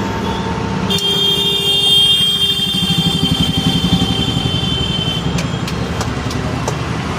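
A vehicle engine idling, with a fast, even low pulse. From about a second in to about five seconds a high, steady, several-note tone sounds over it, and a few sharp clicks follow near the end.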